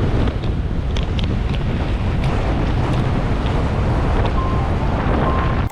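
Wind buffeting the microphone: a loud, steady, rumbling rush, with a few faint ticks.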